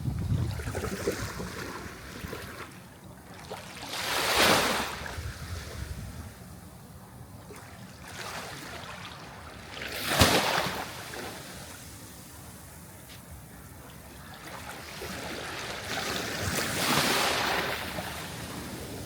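Sea waves washing in, with three surges about six seconds apart over a steady hiss of water; the middle surge is the sharpest and loudest.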